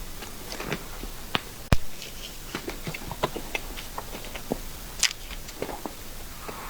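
Mouth sounds of eating cream cake: small wet smacks and clicks of chewing, scattered and irregular, with one sharp click about two seconds in and another near five seconds.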